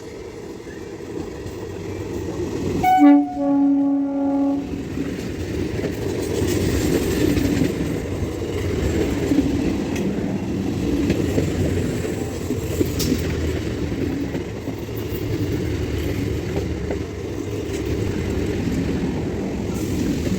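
Electric multiple-unit local train approaching and sounding its horn once, a single blast of about a second and a half, then running past with a steady rumble of wheels on rail.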